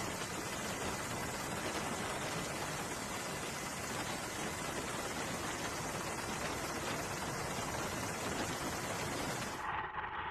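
A steady, even hiss of noise with no rhythm or events in it, which cuts off abruptly near the end.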